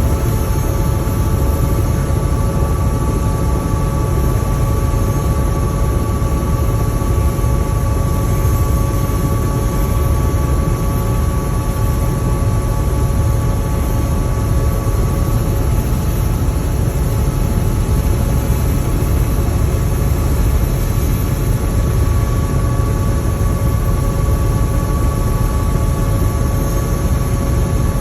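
Helicopter running steadily, a heavy low rotor and engine drone with a steady whine above it.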